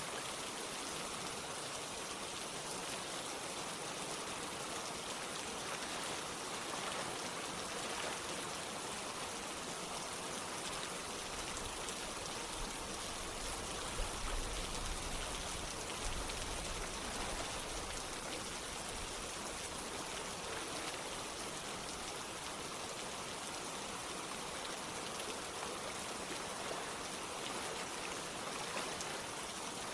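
Steady rain falling, mixed with the rush of running water, with a brief low rumble about halfway through.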